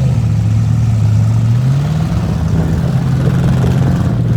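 Demolition derby cars' V8 engines running loudly and steadily, the revs rising slightly about one and a half seconds in.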